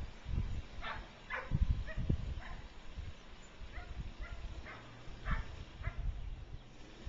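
A dog barking about nine times in short, separate barks, over a low, uneven rumble.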